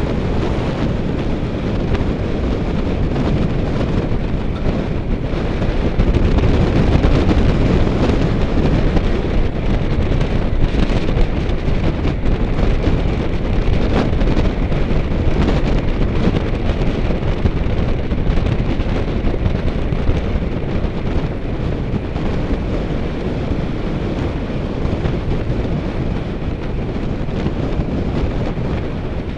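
Wind rushing over the microphone of a camera carried on a moving bicycle, a loud steady low rumble that swells a little about a quarter of the way in.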